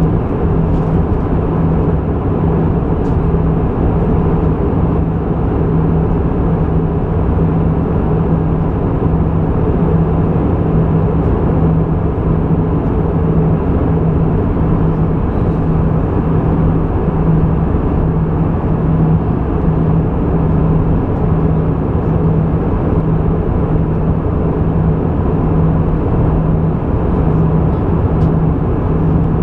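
Airbus A320 cabin noise in flight: the steady drone of the engines and the airflow, with a low hum that slowly swells and fades.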